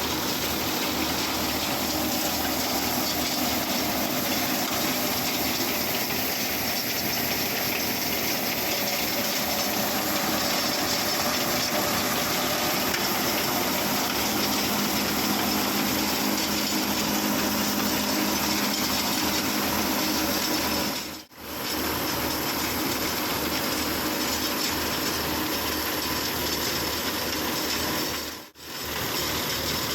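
Mahindra tractor running a PTO-driven thresher that is threshing pearl millet: a loud, steady mechanical noise of engine and threshing drum together. The sound dips out briefly twice, about 21 and 28 seconds in.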